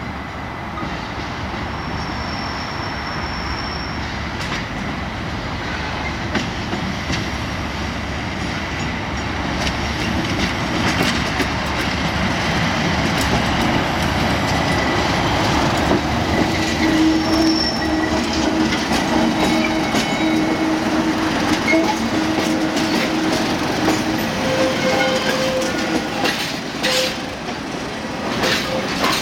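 English Electric-engined Class 37 diesel locomotives passing with a short train, their engine noise growing louder. Short high wheel squeals come in places, and rapid rail-joint clicks are heard near the end.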